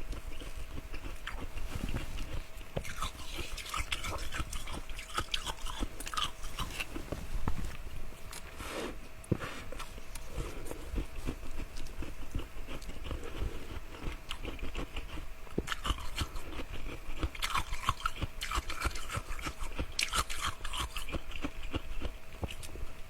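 A person biting and chewing ice close to the microphone: a continuous run of crisp crunches and crackles, loudest about seven seconds in.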